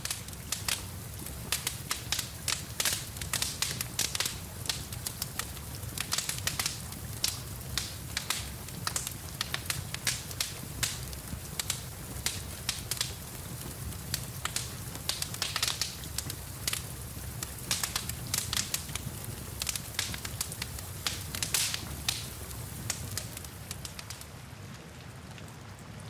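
Wood fire burning in a fireplace, with frequent sharp crackles and pops over a steady low rumble of the flames. Rain may be mixed in underneath.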